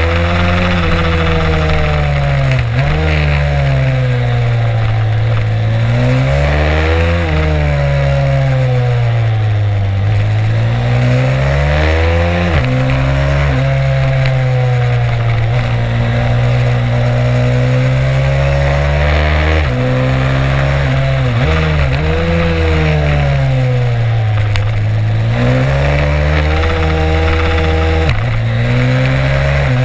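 Stomp 140 pit bike's single-cylinder four-stroke engine heard onboard under hard riding: the revs climb and fall every few seconds as it accelerates, shifts and backs off, with sudden drops in pitch at the gear changes.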